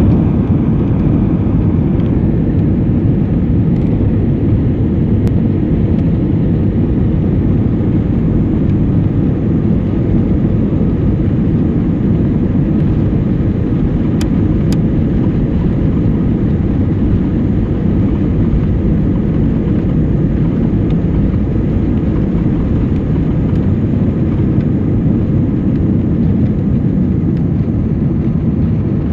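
Airbus A319 airliner heard from inside the cabin: a steady, even low rumble of engine and airflow noise.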